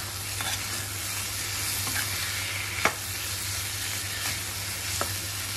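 Potatoes and dill leaves sizzling in oil in a metal kadai while a metal spatula stirs them, with a few sharp clicks of the spatula against the pan, the loudest about three seconds in.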